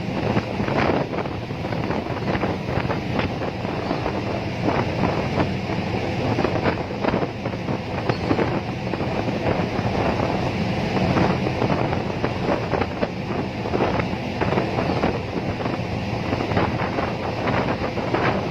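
Wind buffeting the microphone: a steady rush with rapid crackling gusts.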